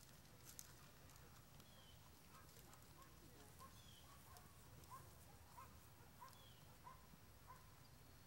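Near silence: faint outdoor ambience with a low rumble and faint bird chirps, a high downward-sliding one about every two seconds and a run of quicker, lower ones in the middle.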